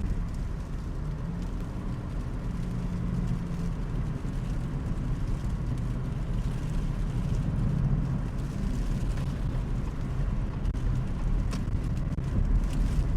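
Steady low rumble of road and engine noise heard from inside the cabin of a moving Subaru.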